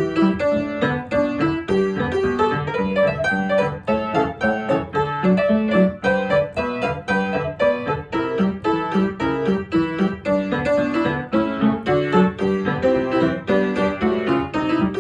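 Background piano music, a steady run of bright notes and chords with no voice over it.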